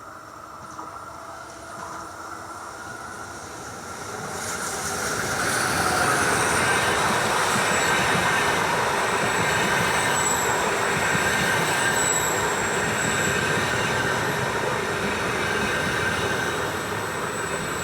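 A train passing on the rails, growing louder about four seconds in and then staying loud. Steady wheel-on-rail rumble with thin, high-pitched wheel squeal.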